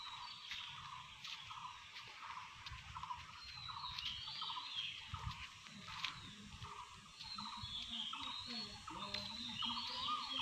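Birds calling and chirping throughout, faint, with short calls repeating every second or so and higher warbling calls over them, plus a few clicks and low rustling from the phone being carried.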